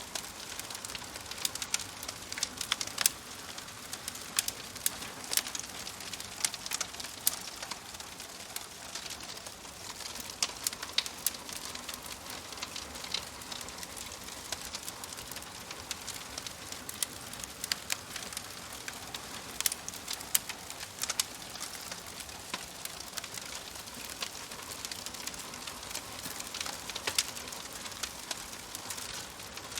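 Campfire crackling: a steady hiss of burning with irregular sharp pops and snaps, sometimes several in quick succession.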